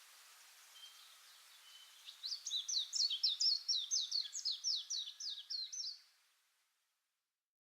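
A small songbird singing a rapid series of about fifteen short, high, downslurred notes, starting about two seconds in over a faint outdoor hiss. The sound fades out to silence near the end.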